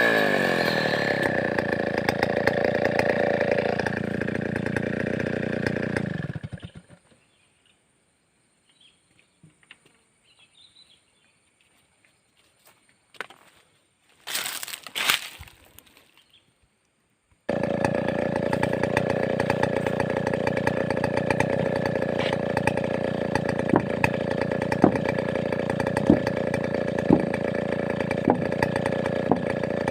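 Large two-stroke chainsaw of the Stihl 070 type running steadily, then dying away about six seconds in. A gap of near silence follows, broken by a short loud burst about halfway through. The saw runs steadily again from a little past the middle to the end.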